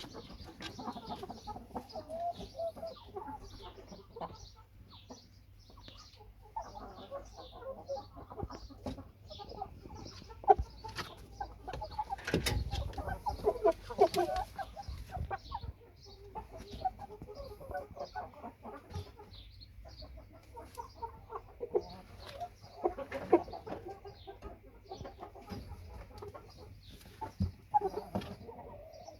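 Shamo gamefowl clucking on and off, with a few sharp knocks among the calls.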